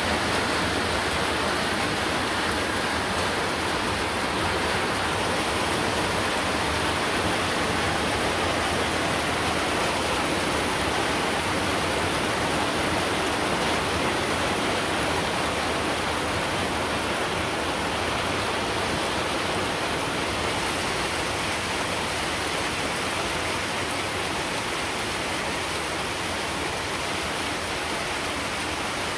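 Rain falling steadily and fairly heavily, an even unbroken hiss.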